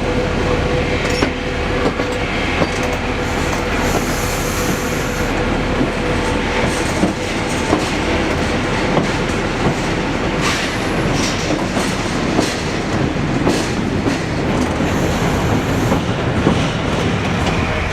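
Train running along the track: a steady rumble, with irregular sharp clicks of the wheels passing over rail joints.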